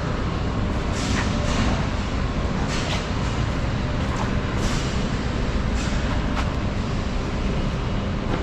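Steady low rumble of an idling semi truck, with a few short sharp clanks scattered through, about eight in all.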